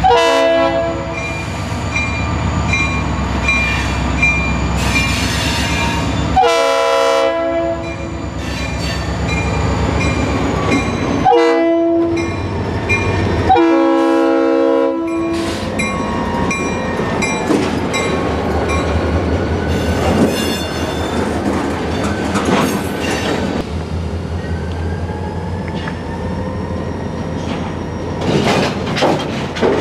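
Florida East Coast Railway diesel freight locomotive sounding its horn four times (long, long, short, then a longer final blast), the grade-crossing signal, with its bell ringing steadily over the low rumble of the working diesel engine. In the second half, faint wheel squeal as the cars roll.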